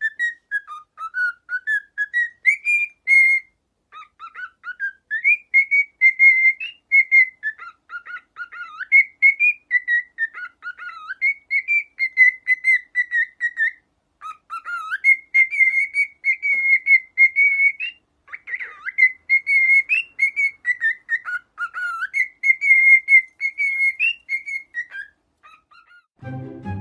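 Parrot whistling: a long run of clear whistled phrases, sliding notes mixed with held tones at much the same pitch, broken by short pauses.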